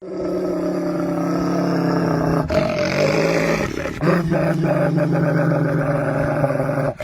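An animal's long, low growling, steady in pitch, breaking off briefly about two and a half seconds in and again near the end.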